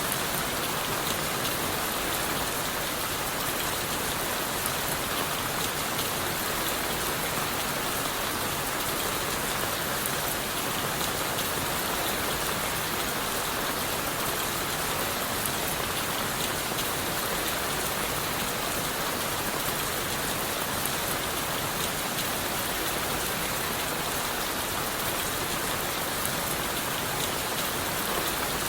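Steady rain falling on leaves, wood and the forest floor: an even hiss of rain with many fine drop patters throughout.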